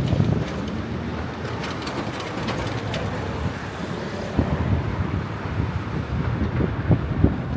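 Outdoor city ambience with wind buffeting the microphone, an irregular low rumble over a steady background noise, and a few faint high clicks about two seconds in.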